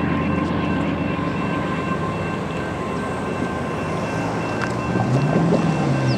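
Union Pacific freight train rolling past with a steady rumble of wheels on rail and faint steady high tones above it. A deeper pitched hum comes in near the end and rises slightly.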